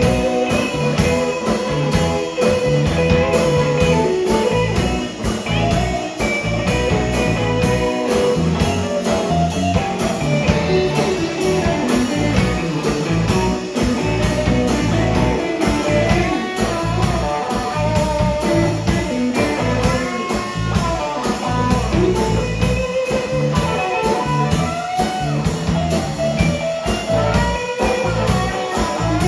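Blues band playing an instrumental passage: a lead guitar solo of bent and wavering single notes over a steady drum kit beat.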